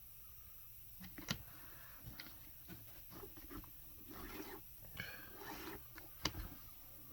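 Hand work on a boot at a cobbler's bench: two sharp knocks, about a second in and near the end, with scraping and rubbing sounds between them.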